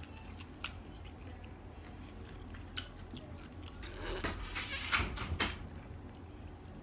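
Close-up chewing of food with small wet mouth clicks. About four seconds in, gulping a drink from a glass of iced drink, a louder noisy stretch of about a second and a half.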